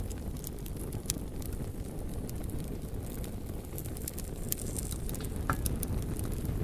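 Wood fire burning, with scattered sharp crackles and pops over a steady low rumble, and a brief higher squeak about five and a half seconds in.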